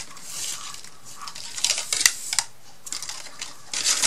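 Craft materials being handled on a tabletop: soft rustling, then a few small, light clicks and taps.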